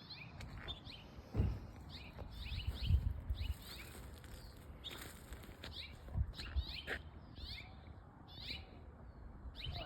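Small birds chirping outdoors: a steady run of short, quick high chirps. A few low bumps on the microphone are louder than the birds.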